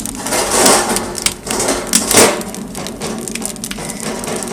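Firewood crackling as it burns in a freshly lit stove-fireplace, with two louder rasping noises in the first half.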